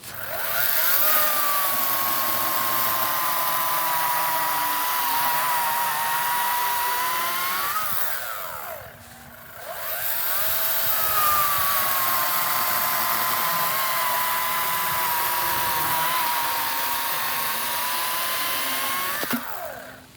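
EGO 56-volt battery chainsaw with an 18-inch bar running in two long cuts, with a short break between them. In each cut the electric motor's whine sags a little in pitch under load and rises again just before the saw stops.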